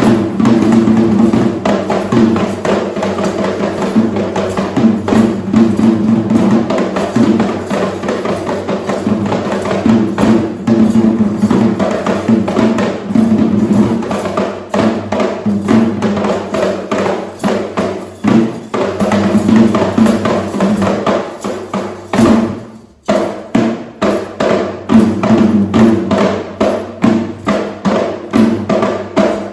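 Traditional Sri Lankan drums played in a fast, dense rhythm of sharp strokes. The drumming dips for a moment about 23 seconds in, then resumes at full pace.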